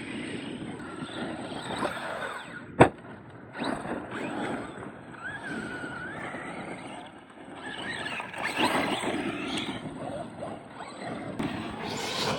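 RC trucks' motors whining and tyres running over dirt, the pitch rising and falling as they accelerate through a jump run. A single sharp snap, the loudest sound, comes about three seconds in.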